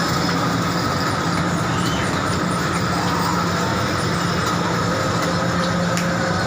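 Train running steadily: a continuous rumble with a steady hum and no sudden events.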